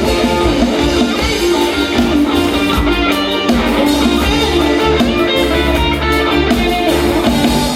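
Live band playing an instrumental passage: electric guitar carrying the melody over bass and drum kit, with a steady beat.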